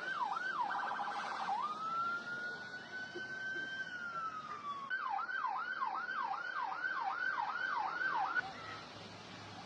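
Electronic emergency-vehicle siren cycling through its patterns: quick up-and-down wails, a brief rapid warble, one long slow rise and fall, then quick wails again, cutting off near the end.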